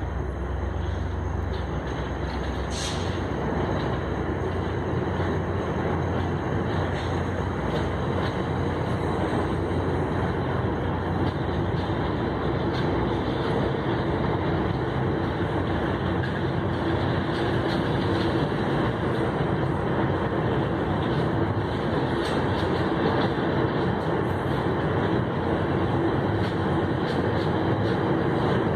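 Steady rumble of a train's diesel locomotive approaching slowly, growing slightly louder, with a faint steady hum joining in during the second half.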